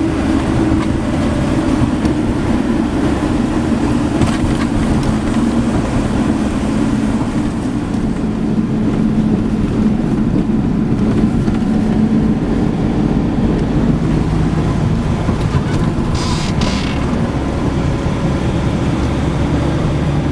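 Steady engine and road rumble of a moving car, heard from inside the cabin, with a brief higher-pitched sound about sixteen seconds in.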